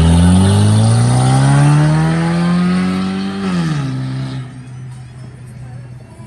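A car engine accelerating hard, its pitch climbing steadily for about three seconds, then the revs drop sharply and the sound fades away as the car pulls off.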